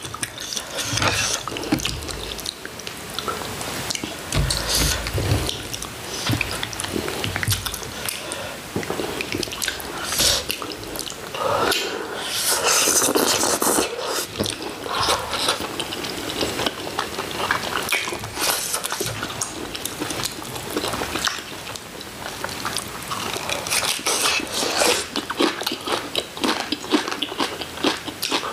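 Close-miked eating sounds: people chewing and biting food, with a dense string of short wet smacks and clicks throughout.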